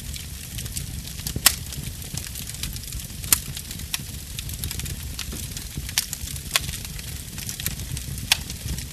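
Burning wood fire crackling, with a steady low rumble of flames and irregular sharp snaps and pops. The loudest pop comes about a second and a half in, and there are a few more further on.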